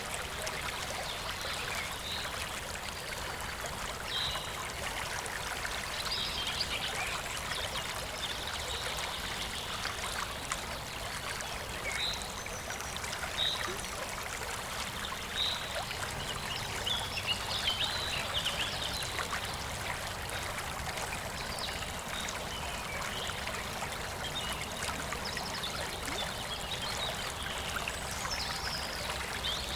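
Clear stream flowing and babbling steadily, with brief high-pitched plinks every few seconds.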